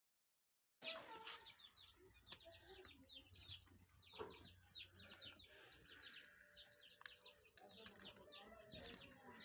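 Faint chirping of many small birds, in quick runs of short, high, falling notes, starting about a second in after dead silence. A few light knocks are heard among them.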